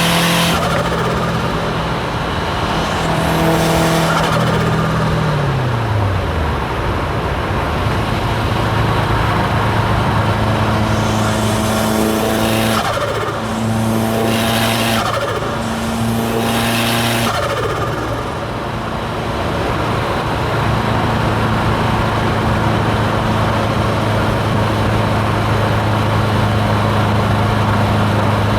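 Subaru WRX STI's turbocharged flat-four engine, fitted with a hybrid turbo and an external wastegate, with the revs falling about five seconds in. Three short pulls through the gears follow between about 12 and 17 seconds, each shift with a burst of hiss from the turbo and wastegate, and then the engine runs steadily at cruise.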